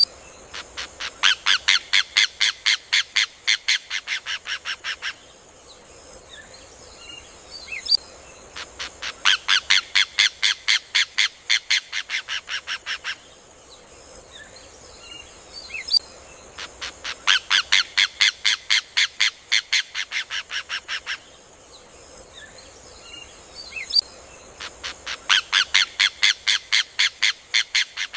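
Rufous hornero (João-de-barro) song: four loud bursts of rapid, evenly spaced ringing notes, about five a second, each burst lasting about four seconds and coming about every eight seconds. Each burst builds quickly to full loudness and eases off slightly at the end, over a steady high hiss.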